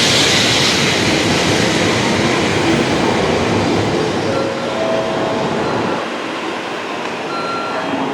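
Tokaido Shinkansen train pulling out of the platform, a steady loud rush of running noise that begins to die away about six seconds in.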